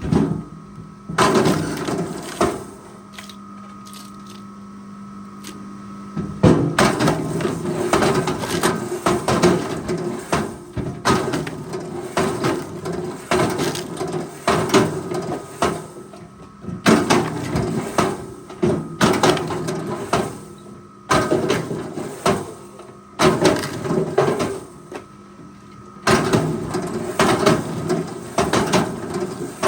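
Forestry machine with its engine running steadily, and repeated spells of loud clattering and knocking of wood being handled. The spells last a few seconds each with short quieter pauses, one longer lull near the start.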